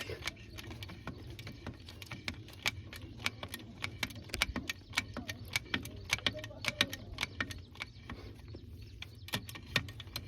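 Diesel earthmoving machinery running with a steady low hum, with many irregular sharp clicks and rattles over it.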